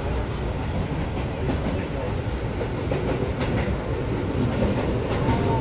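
Seibu 6000 series electric train running, heard from inside the car: a steady rumble of wheels on rails with scattered clicks over the rail joints.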